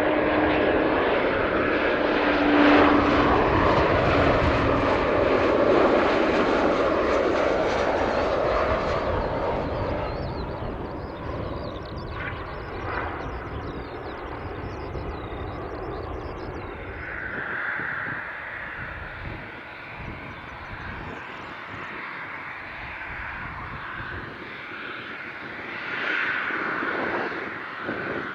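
Jet airliner engines running loud at first, then fading away over the first third as the aircraft moves off, leaving a fainter rumble that swells again briefly near the end.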